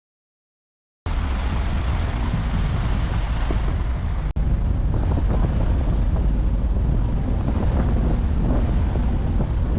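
Wind buffeting the microphone aboard a moving harbour tour boat: a loud, steady low rumble with rushing noise over it. It starts abruptly after about a second of dead silence and drops out for an instant a little past four seconds in.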